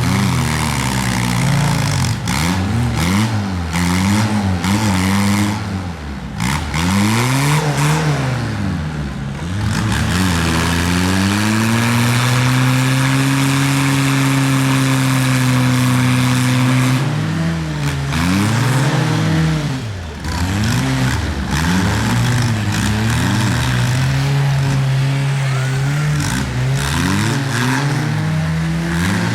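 Tractor engine revving up and down over and over, with a spell of about five seconds held at steady revs in the middle.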